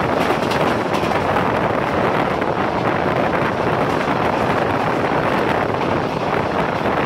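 Steady wind buffeting the microphone over the running noise of a passenger train at speed, heard from outside the moving coach.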